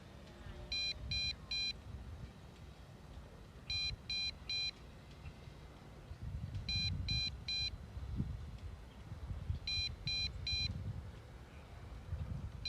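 MJX Bugs 5W drone's remote controller sounding its low-battery warning: groups of three short high beeps repeating about every three seconds, signalling the first level of low voltage.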